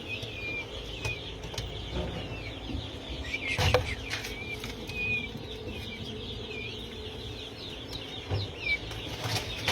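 Indian peafowl chicks peeping, short high chirps repeated every half second or so, with a brief thump about three and a half seconds in.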